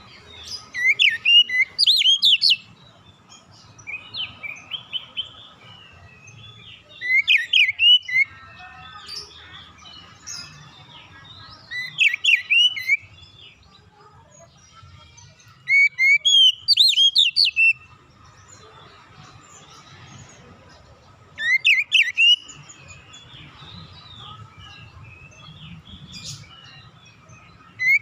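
Oriental magpie-robin (kacer) singing: loud bursts of rapid sweeping whistled notes about every four to five seconds, with softer chattering phrases between.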